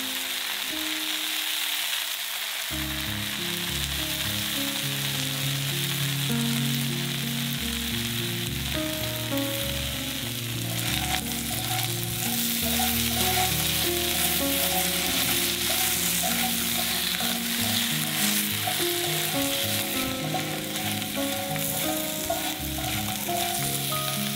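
Food sizzling steadily in a hot frying pan, with background music underneath.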